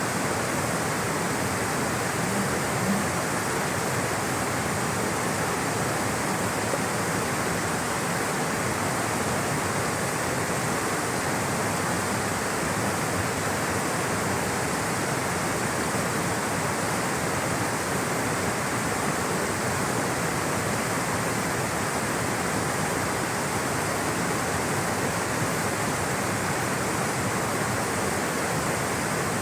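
Flowing water rushing steadily, an even, unbroken rush like a stream or small waterfall.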